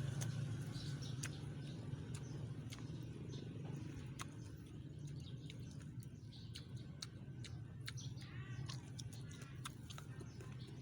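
Birds chirping outdoors, with a short warbling call about eight seconds in, among scattered sharp clicks and over a low hum that slowly fades.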